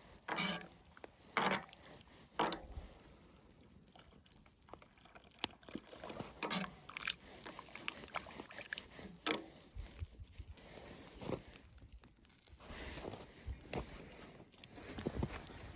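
Spoon stirring soup in a cast iron Dutch oven: scattered knocks and scrapes with a faint sloshing of liquid.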